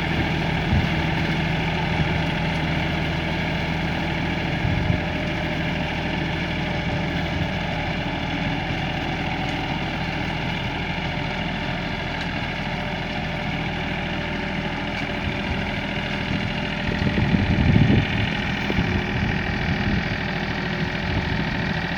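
Tractor engine running steadily, swelling louder for a moment about three quarters of the way through.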